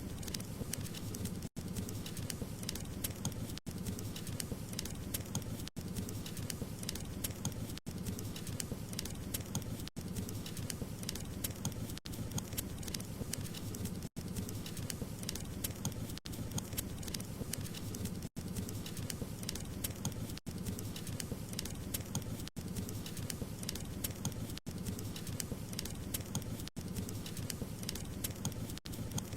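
Burning wood crackling steadily over a low rumble, with a brief dropout about every two seconds.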